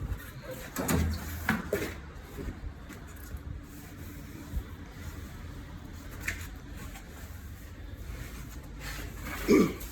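Scattered knocks, clunks and rubbing of tools and parts being handled during a car tyre change, over a low steady hum. The loudest clunks come about a second in and near the end.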